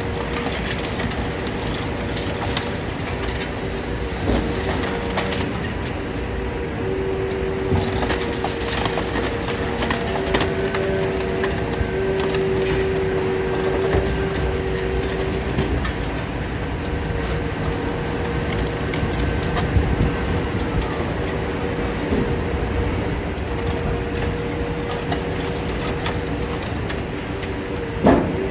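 Idromec T 650 CLS scrap metal shear baler at work: its hydraulic power unit runs with a steady hum while scrap metal is crushed with scattered creaks, cracks and clanks. A louder bang comes near the end.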